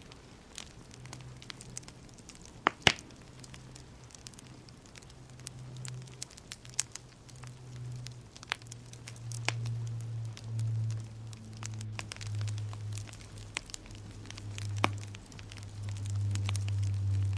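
Wood fire in a fireplace crackling, with irregular sharp pops, the loudest about three seconds in, over a low rumble that swells in the second half.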